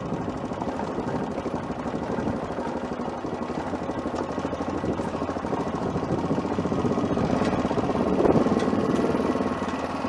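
Adventure motorcycle engine running steadily while ridden, swelling a little louder about eight seconds in.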